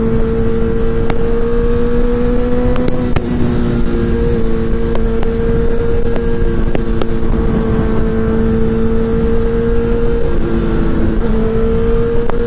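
Honda CBR1000RR's inline-four engine running at steady high revs under way, its pitch holding nearly level apart from brief dips about three seconds in and again near the end.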